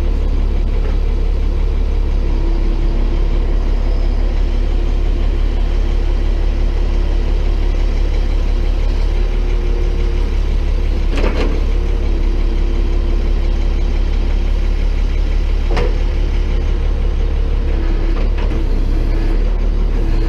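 Tow truck engine idling steadily, with two short, sharper sounds about eleven and sixteen seconds in.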